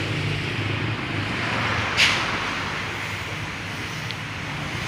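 Demolition-site noise: a steady low rumble and hiss, with a single sharp knock about two seconds in.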